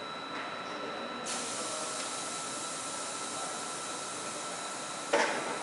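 NSB commuter electric train standing at the platform with a steady electrical tone, when a loud even air hiss starts abruptly about a second in and keeps going. Near the end, two sharp knocks about half a second apart as the train's doors shut.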